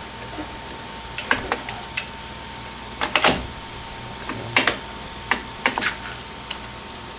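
Steel drum-brake parts clicking and clinking as the shoes and self-adjuster are worked into place by hand: scattered sharp clicks, with the loudest clatter about three seconds in.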